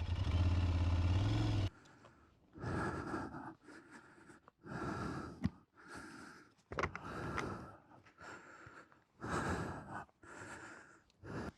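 Aprilia Tuareg 660's parallel-twin engine idling, then cut off abruptly about two seconds in as the bike is switched off. After that, a string of short, irregular bursts of noise close to the microphone with quiet gaps between them.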